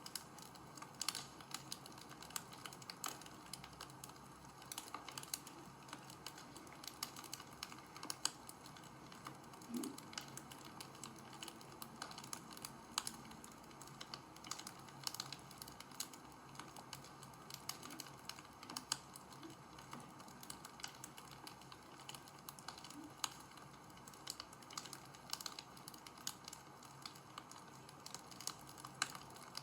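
Wood fire crackling: irregular sharp snaps and pops, several a second, over a faint steady hiss.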